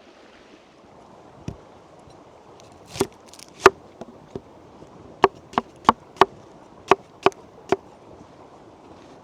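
Chopping: about a dozen sharp, unevenly spaced strikes, coming faster in the second half.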